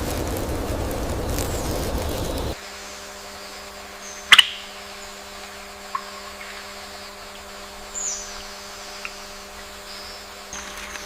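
A steady rushing noise that cuts off suddenly about two and a half seconds in, followed by scattered bird chirps over a faint steady hum, the sharpest chirp about four seconds in.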